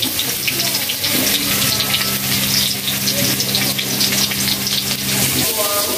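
Whole potatoes frying in hot oil in an iron kadai, a steady sizzle. A steady low hum sounds under it and cuts off about five seconds in.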